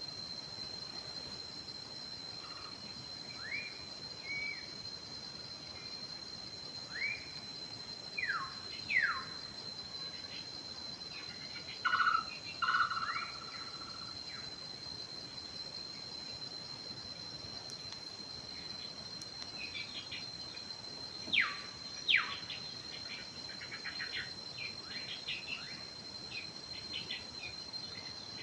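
Forest birds calling over a steady, high-pitched insect drone. The birds give scattered short whistled notes and quick downward-sweeping calls, with a louder burst about twelve seconds in and two sharp sweeping notes a little past twenty seconds.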